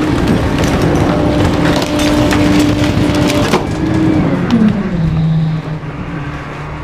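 A garbage truck's packer blade crushes wooden bulky items, with repeated cracking and splintering over the steady tone of the truck's engine and hydraulics. The cracking stops about three and a half seconds in, and the machine tone drops in pitch and settles lower as the packing stroke ends.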